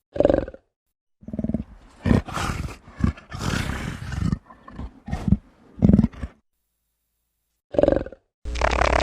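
A big cat giving a series of short roars and grunts, each about half a second long, with a longer, rougher roar about three seconds in. A different steady sound starts just before the end.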